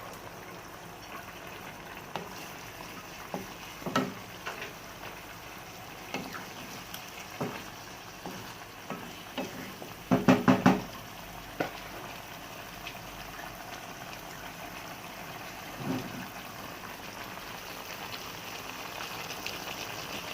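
Braised chicken in tomato-pineapple sauce, with hot water just added, bubbling and sizzling in the pan, with scattered clinks of a utensil against the pan and a short burst of clatter about halfway through.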